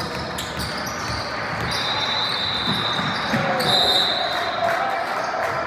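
Basketball game in a gym: a ball bouncing on the hardwood court among voices of players and spectators echoing in the hall, with a couple of high squeals.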